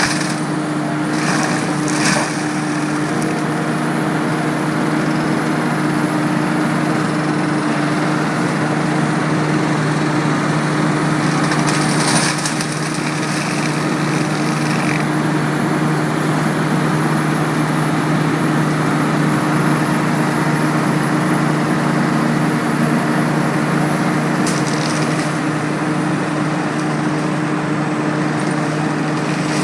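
Seppi Super BMS 150 double-engine forestry mulcher running at a steady speed, a constant engine drone. A few short cracks break through near the start, around the middle and later on.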